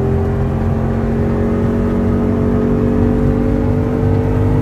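2017 Toyota Tundra's V8 engine held at full throttle after an ECU retune, its pitch climbing slowly and steadily as it pulls.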